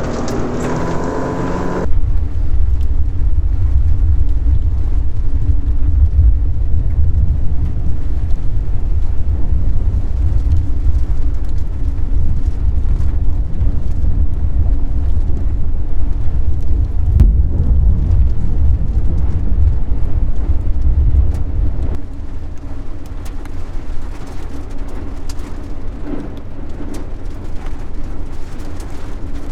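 Strong wind buffeting the microphone as a heavy low rumble, with a steady low hum beneath it; the rumble eases about 22 seconds in.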